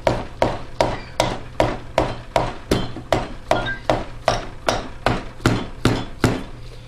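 Hammer tapping the piston down into the cylinder of a Tecumseh 3.5 HP lawnmower engine: a steady run of light, even strikes, about two and a half a second.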